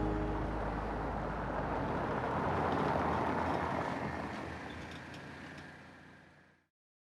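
Vehicle engine and road noise, a low rumble that swells about three seconds in and then fades away to silence.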